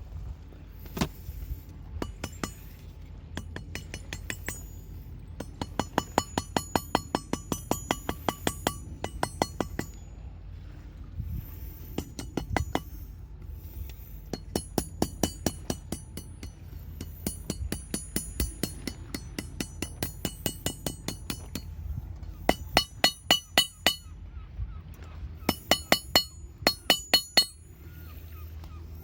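Hand hammer forging steel on an anvil, likely shaping a fire striker: runs of quick ringing metal-on-metal blows, about four or five a second, with short pauses between the runs.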